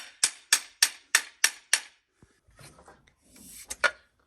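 A rapid run of sharp, evenly spaced knocks, about three a second, that stops about two seconds in; then faint rustling and two quick clicks near the end.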